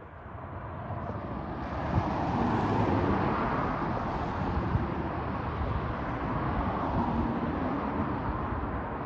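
A vehicle going by on a snowy street: tyre and engine noise builds over the first two seconds, then holds steady with a slight fade near the end.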